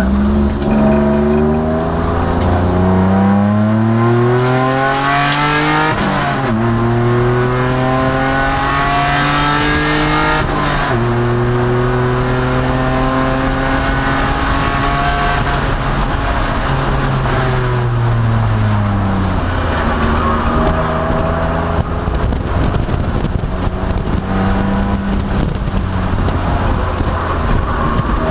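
2002 Nissan Maxima race car's V6 engine, heard from inside the cabin, pulling hard with its pitch climbing through the gears, with breaks at shifts about six and eleven seconds in. The revs hold high, fall away for a few seconds past the middle, then climb again near the end.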